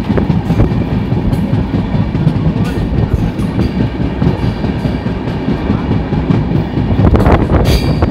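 Passenger train coaches running at speed: a steady rumble of wheels on the rails, with irregular clacks as the wheels cross rail joints, loudest near the end.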